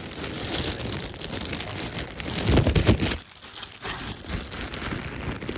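Packaging rustling and crinkling as a freshly unwrapped gift is handled, loudest just before three seconds in and quieter after.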